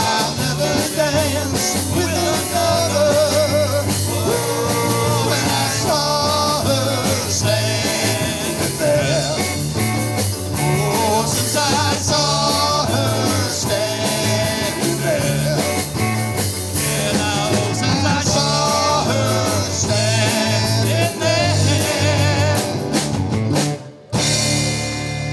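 Live rock-and-roll band playing, with a wavering sung or lead melody over a steady bass line. The music breaks off sharply about a second before the end, then a final chord rings out and fades.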